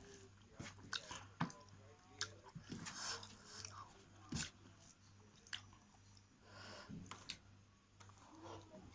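Close-up mouth sounds of a person eating curry and rice: chewing with irregular wet smacks and sharp clicks.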